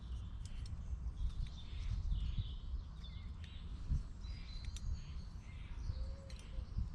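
Small birds chirping and calling in woodland, over a steady low rumble, with a few sharp clicks.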